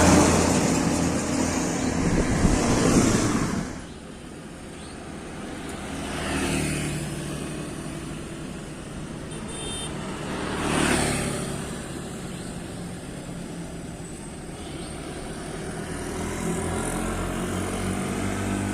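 A heavy truck passes close by, loud at first and fading away about four seconds in. A low steady engine drone follows, with two more vehicles passing, at about six and eleven seconds.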